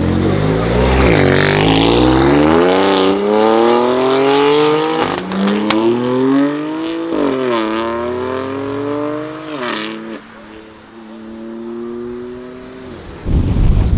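BMW M4 F82's twin-turbo inline-six with a Milltek exhaust accelerating hard through the gears, the engine note climbing and dropping back at each of three upshifts, with a sharp crack about halfway through. After the last shift the note holds and fades as the car pulls away, and near the end wind buffets the microphone loudly.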